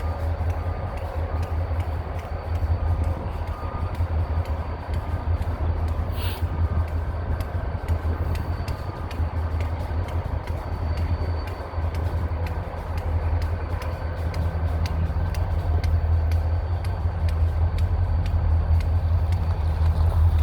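Diesel locomotive idling with a steady low rumble, with a brief hiss about six seconds in.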